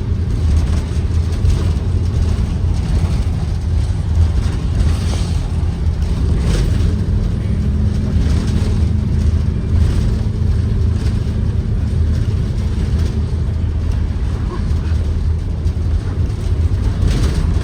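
Ford 7.3L gasoline V8 of a Blue Bird Vision school bus running steadily while the bus drives, heard from inside the cabin with a deep, continuous rumble.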